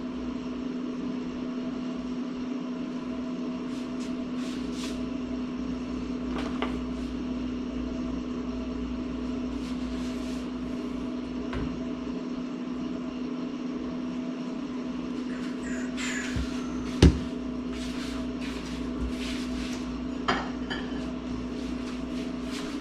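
Kitchen sounds during breakfast preparation: a steady mechanical hum at one pitch throughout, with scattered clicks and knocks of kitchenware. The loudest knock comes about 17 seconds in.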